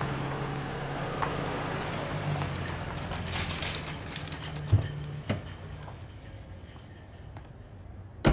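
Vintage saloon car's engine running low and steady as the car pulls up and stops, then fading away. About halfway through come two sharp knocks.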